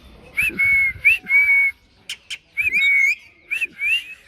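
Indian ringneck parakeet giving whistled, talking-style calls: several short phrases, each a quick rising note followed by a held high note, repeated with short gaps.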